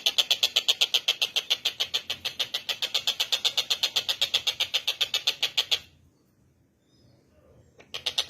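Tengkek buto bird giving a fast run of harsh, even chattering notes, about eight a second; the call stops for about two seconds near the end, then starts again.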